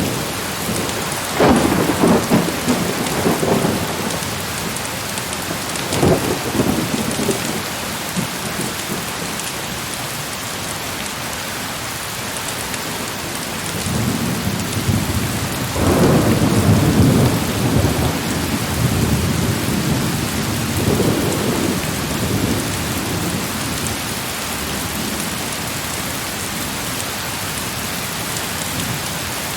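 Heavy rain pouring steadily, with rolls of thunder. One rumble comes about a second and a half in and a shorter one around six seconds. A long, louder roll builds from about fourteen seconds and dies away by about twenty-two seconds.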